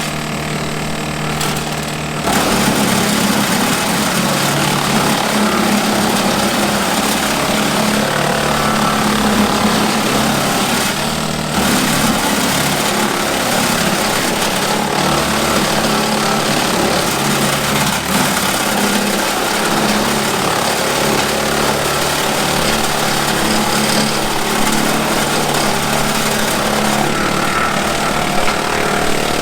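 Kubota M7060 diesel tractor driving a Woodmaxx WM8H PTO wood chipper. About two seconds in the sound jumps louder and rougher as brush is fed in and chipped, with a rattling grind over the engine that holds steady.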